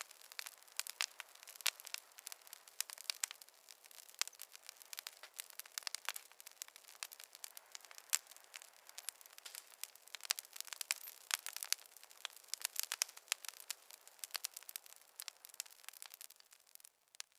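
Wood fire crackling in a fireplace: a dense, irregular run of small pops and snaps over a soft hiss, thinning out near the end.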